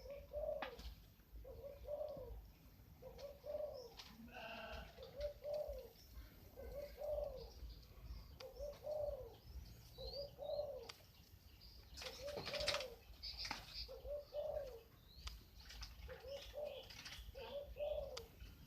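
A dove cooing softly and over and over, a short coo about once a second, with a few faint high bird chirps and a brief rustle a little past the middle.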